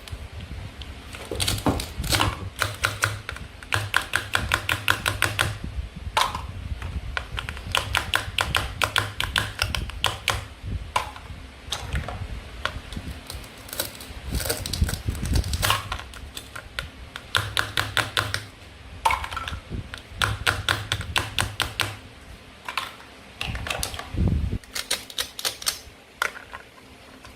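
Toy plastic play food and cutting tools being handled: quick runs of sharp plastic clicks, several a second, in bursts of a second or two with short pauses between.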